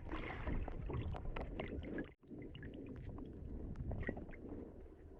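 Muffled water movement with many small clicks and knocks scattered through it. The sound drops out completely for a moment about two seconds in.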